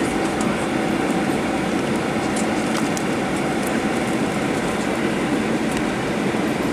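Steady rumble of a Boeing 737-800 heard from inside the passenger cabin as it rolls on the ground just after landing, with faint scattered rattles.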